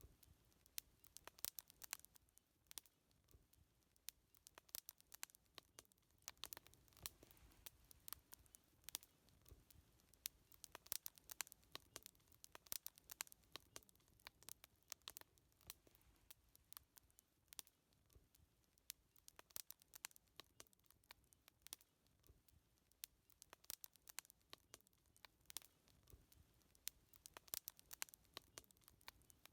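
Wood fire crackling: many irregular sharp pops and snaps, a few of them louder, over a faint low hiss.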